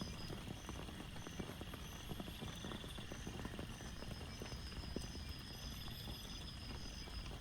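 Rain falling steadily, with many individual drops landing in quick, irregular taps over a constant hiss.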